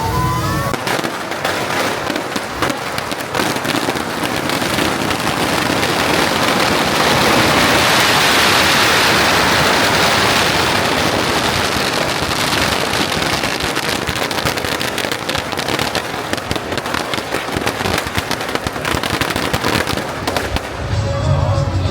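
A long, continuous barrage of firecrackers and fireworks: a dense, fast crackle of countless small bangs, loudest around the middle and thinning near the end.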